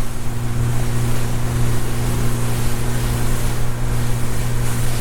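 Boat engine running steadily with an even low hum, under a wash of wind and water noise.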